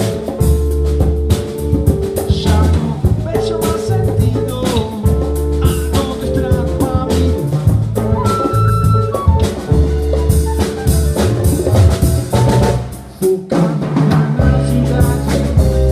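Live funk band playing, with a repeating electric bass line over a drum kit and a brief drop in level about thirteen seconds in.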